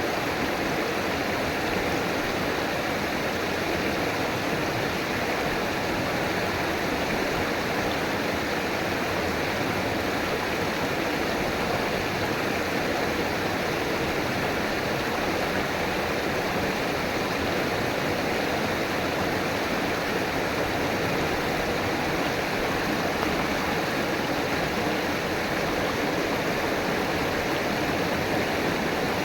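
River water rushing and splashing in a steady, even wash.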